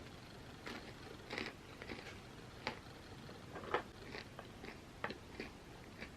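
Close-miked biting and chewing of crunchy chips: irregular crisp crunches, the loudest one about two thirds of the way in.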